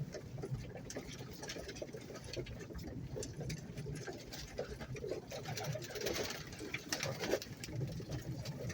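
Pigeons pecking at grain feed: a rapid, irregular tapping of many beaks, with low cooing underneath.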